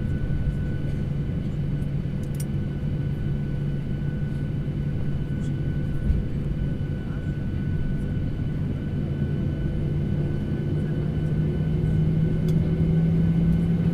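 Airliner cabin drone from the engines, a steady low hum with steady higher whine tones, rising slightly in pitch over the last few seconds. A few faint clicks sound through it.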